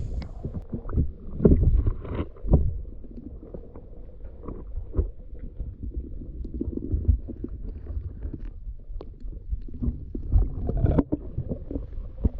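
Creek water sloshing and splashing under a low rumble, with irregular knocks and splashes, the loudest about 1.5 and 2 seconds in and again near the end.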